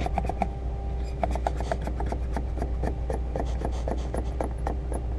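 Cutting wire rasping through the urethane bead that holds an auto quarter glass, in a run of short, irregular scraping strokes over a steady low hum.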